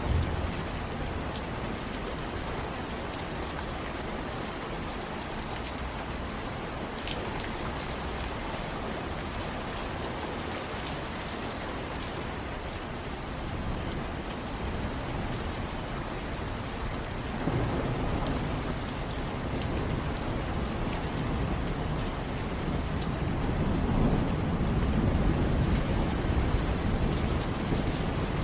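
Steady rain falling, with drops ticking on a surface, and low rolling thunder that swells up about two-thirds of the way through and again, louder, near the end.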